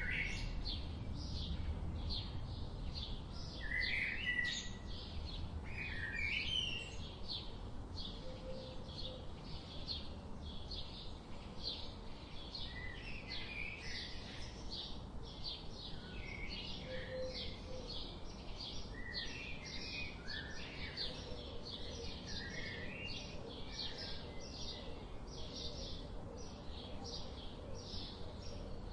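Birds chirping: a fast, even series of short high chirps, about three a second, with other brief rising and falling calls mixed in over a low background rumble.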